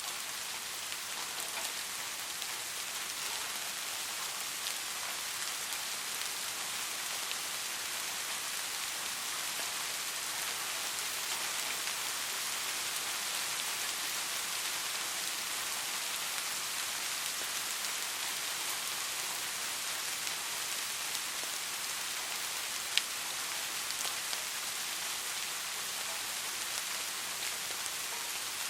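Soft, steady rain falling, an even hiss of fine drops with light scattered ticks and one sharper tick about three-quarters of the way through.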